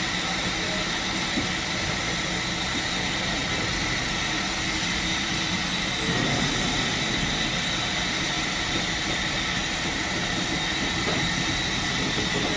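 British Railways Mk1 passenger coach running along the line: a steady rumble and hiss of the train in motion, with a faint steady high-pitched whine over it.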